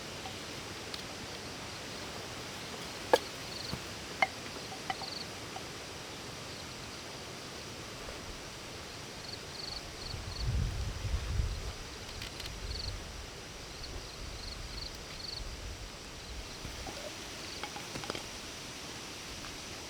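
Outdoor ambience: a steady hiss with short, high chirps repeating, typical of insects. There are a few sharp clicks about 3 and 4 seconds in, and a low rumble around the middle.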